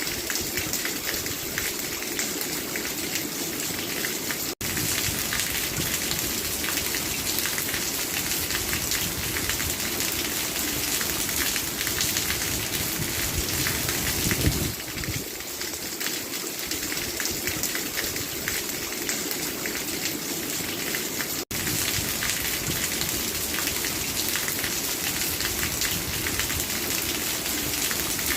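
Steady rain falling, a dense, even patter of drops on a surface. The sound cuts out for an instant twice, about four seconds in and again about two-thirds of the way through.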